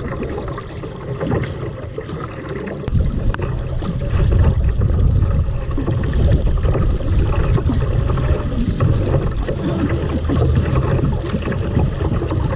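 Water sloshing and splashing around a kayak, with wind buffeting the microphone as a heavy low rumble that grows stronger about three seconds in.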